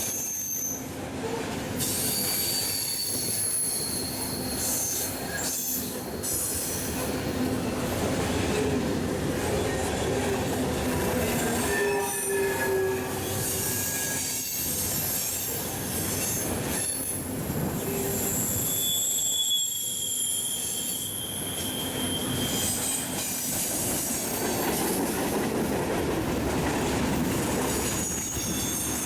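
Train rolling past, its steel wheels squealing on the rails: high squeals that come and go every few seconds over a steady rumble.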